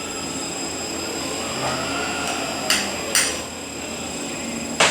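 Eaton Fuller RTO-11707LL truck transmission running on a dyno test stand with a steady hum and high whine. Sharp metallic clanks come twice a little past the middle, and again just at the end.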